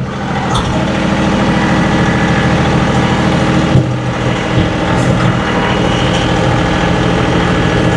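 John Deere 2038R compact tractor's three-cylinder diesel engine running steadily while plowing snow, with a brief dip and change in tone about four seconds in.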